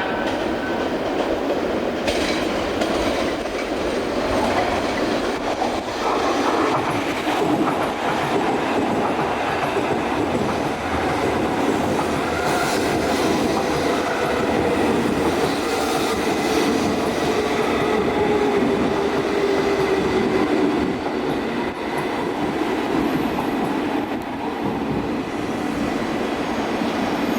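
E2 series Shinkansen train pulling into the platform and slowing, with steady rolling noise and a whine that falls slowly in pitch as it brakes.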